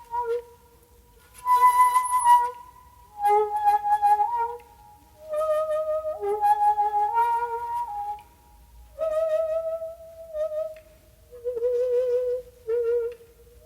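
Solo shakuhachi playing slow phrases of long held notes with pauses for breath between them. One note about 2 s in is very breathy, and several notes near the end waver in pitch.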